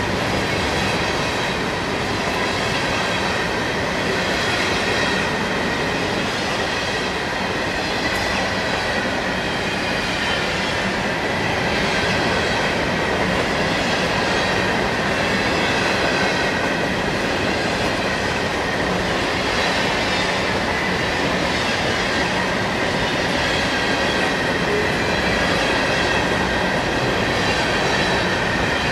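Empty trash-container flatcars of a long freight train rolling past, their steel wheels running on the rails in a steady rolling rumble and rattle, with a faint high, wavering squeal from the wheels.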